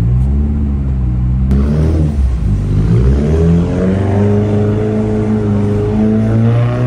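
Car engine revving during a slow drift on a snowy lot: the revs dip about two seconds in, then climb and hold high.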